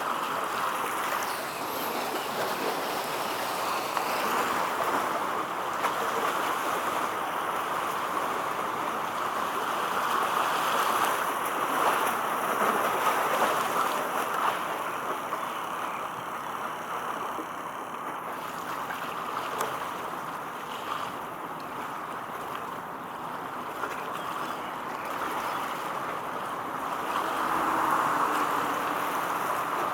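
Steady rushing of water and waves, swelling a little louder at times.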